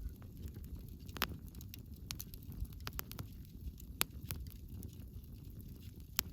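Wood bonfire crackling: irregular sharp pops and snaps over a steady low rumble, the strongest pops about a second in and about four seconds in.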